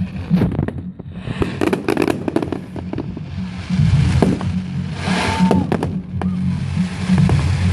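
Firework display: a rapid run of bangs and crackles that thickens twice, with a brief whistle about five seconds in.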